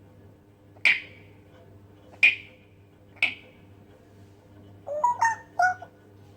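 African grey parrot making three sharp clicks about a second apart, then a quick run of three or four short squeaky chirps that slide in pitch near the end.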